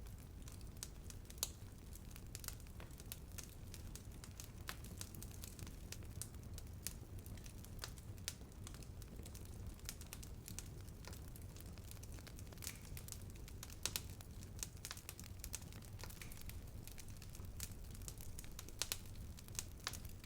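Bonfire burning, the wood crackling with irregular sharp pops over a low, steady rumble of the flames, a few pops standing out louder.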